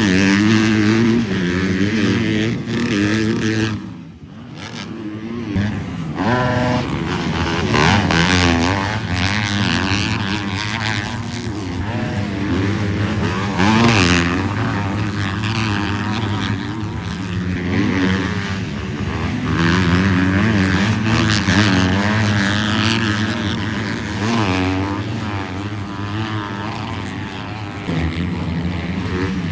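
Several motocross bikes racing, their engines revving up and down through the gears as they pass, with more than one bike often heard at once. The sound drops briefly about four seconds in, then builds again.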